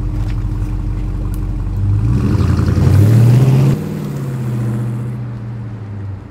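Dodge Challenger R/T's V8 engine running, then revving up as the car pulls away about two seconds in, loudest for a moment before easing off suddenly and running steadily as it drives off.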